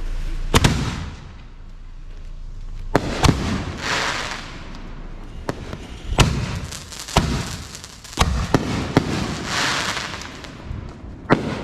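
Fireworks going off: sharp bangs every second or few, some in quick pairs, with two spells of crackling hiss, one a few seconds in and one near the end.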